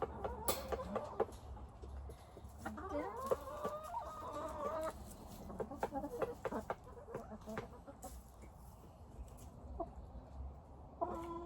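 Domestic chickens clucking, with a burst of short calls in the first few seconds, along with scattered light clicks and taps.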